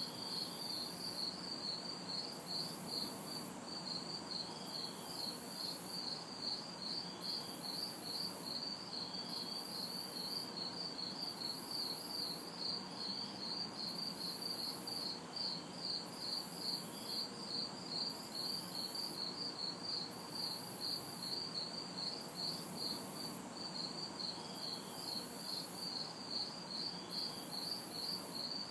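Night insect chorus: crickets chirping in a steady, even pulse, with a higher insect buzz that swells and fades about every second and a half. Faint distant traffic forms a low, steady hum underneath.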